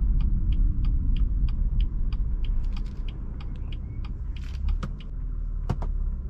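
BMW M4 Competition's 3.0-litre twin-turbo inline-six running low and steady inside the car, with a rapid, even ticking of about three to four clicks a second over it.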